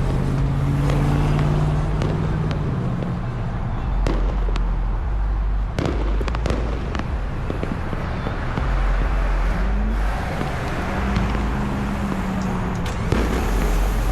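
Scattered sharp firework pops and crackles, a few around four to seven seconds in and one near the end, over the steady low hum of vehicle engines idling in traffic.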